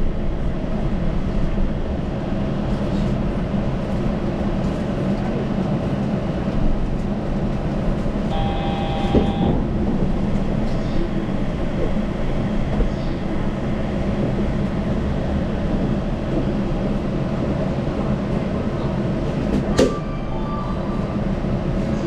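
Running noise of a Yurikamome rubber-tyred automated train: a steady low rumble of tyres and traction motors. A short electronic tone sounds about eight seconds in, and a sharp click near the end is followed by a brief tone.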